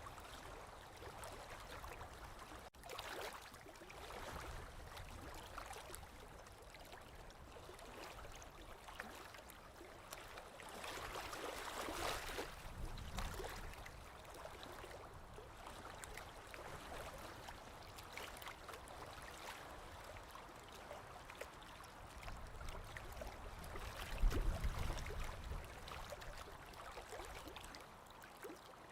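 Small waves lapping on a lake shore, a soft continuous wash that swells louder about twelve seconds in. A brief low rumble stands out a little past the twenty-second mark.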